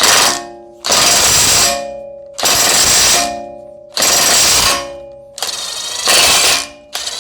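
Impact wrench hammering on a front axle nut in five short bursts, each under a second, with brief pauses between, as the nut is broken loose.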